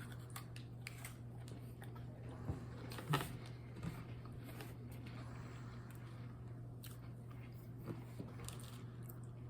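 A person biting into and chewing a crunchy Nestlé Alpino chocolate cookie with a creamy filling, giving a few soft, irregular crunches over a steady low hum.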